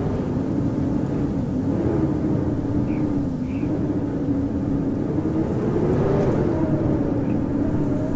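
Howling winter wind: a steady rushing blow with a low moaning tone that wavers in pitch, and a higher whistling tone that rises and sways near the end.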